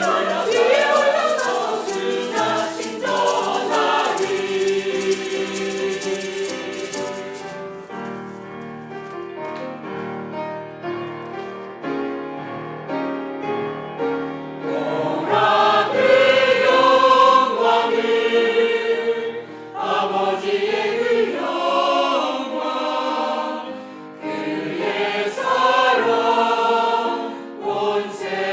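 Church choir singing part of a Christmas cantata, quieter through a middle passage and swelling louder about halfway through.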